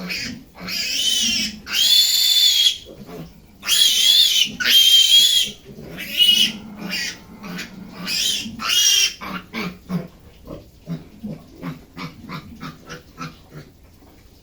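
Piglets squealing: a string of loud, high-pitched squeals, each lasting up to about a second. After about nine seconds these give way to short, quieter grunts, several a second.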